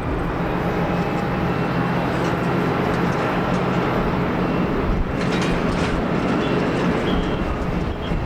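Boeing 737-800's CFM56 jet engines running on a landing approach: a steady jet roar with a deep rumble and a faint thin whine over it.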